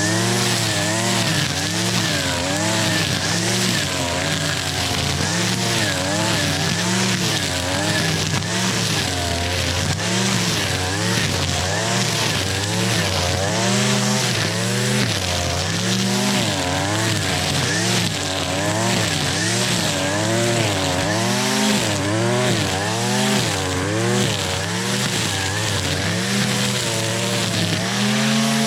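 Gas string trimmer (weed eater) fitted with a string head running at high throttle, its engine pitch rising and falling over and over as it cuts through tall grass and weeds.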